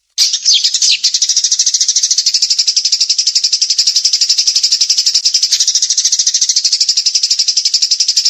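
A small songbird's fast rattling trill, the rapid-fire 'tembakan' song. It is a continuous run of high, sharp notes at about a dozen a second, starting right after a brief gap.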